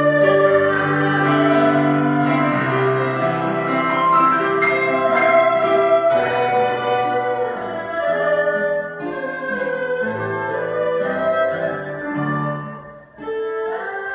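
Slow instrumental music: bowed strings, violin and cello, over piano, playing long held notes; it thins out and dips briefly near the end before the strings come back in.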